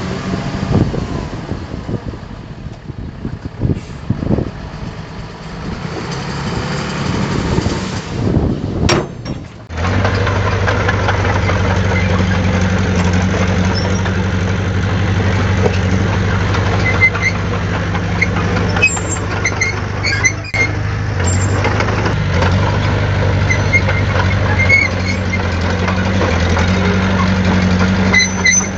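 Diesel engine of heavy earthmoving equipment, a bulldozer or dump truck. It rises and falls unevenly at first. After an abrupt change about ten seconds in, it runs at a steady low hum.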